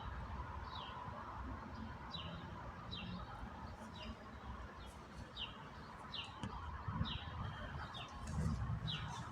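A small bird calling over and over: a short falling chirp about every three-quarters of a second, a dozen or so times, over a faint low rumble.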